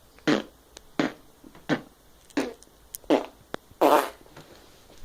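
A series of about six short fart-like noises in quick succession, the last one longer and louder than the rest.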